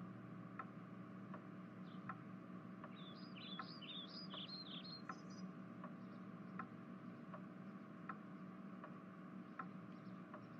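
Faint background ambience: small birds chirp in a short quick cluster about a third of the way through, over a steady low hum and soft ticks about every three-quarters of a second.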